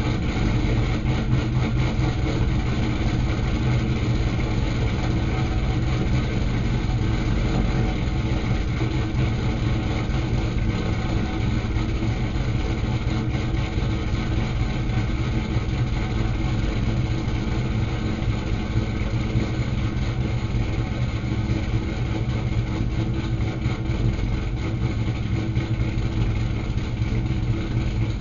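2006 Pontiac GTO's 6.0 L LS2 V8 with an aftermarket Torquer 2 camshaft idling steadily just after a cold start.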